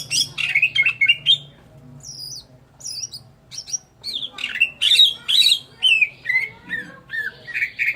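Green leafbird (cucak ijo) in full song: quick runs of sweeping chirps and whistles. About a second and a half in, it thins to scattered high notes, then returns to dense, loud phrases from about four seconds in.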